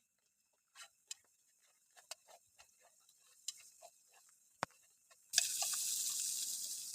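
Scattered drips of rainwater ticking one by one, then about five seconds in a steady hiss of rain starts abruptly and much louder.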